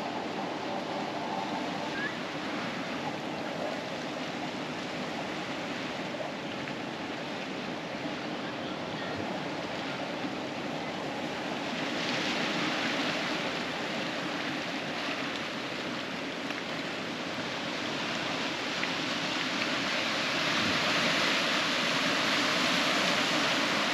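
Ocean surf breaking and washing up on a sandy beach: a steady hiss that swells louder about halfway through and again near the end.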